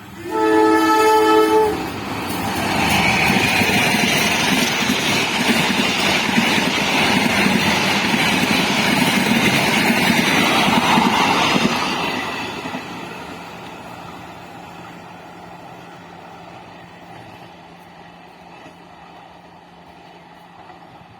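A train's horn sounds one blast of about a second and a half. The train then passes at speed, a loud rushing and rumbling for about ten seconds that fades away after it has gone by.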